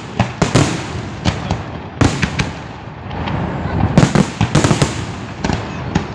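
Aerial fireworks shells bursting in a large professional display: sharp bangs in quick clusters about every two seconds, with crackling and rumbling between them.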